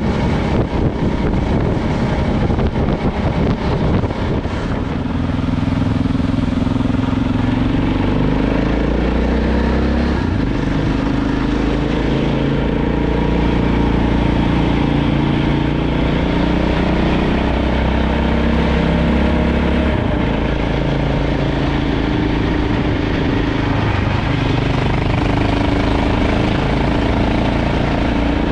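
KTM LC4 640 single-cylinder four-stroke engine running steadily as the motorbike is ridden along, its note stepping to a new pitch a few times. Wind rushes over the microphone in the first few seconds.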